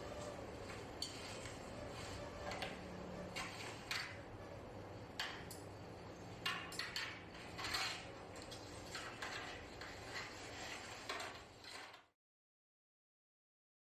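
Scattered light clicks and knocks of objects being handled and set in place, over faint room noise. The sound cuts off to dead silence about twelve seconds in.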